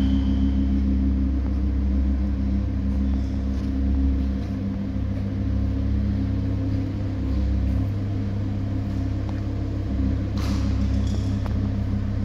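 Steady low engine rumble of a stationary Volkswagen Scirocco idling, with an even hum and no revving. A short rustling noise comes about ten seconds in.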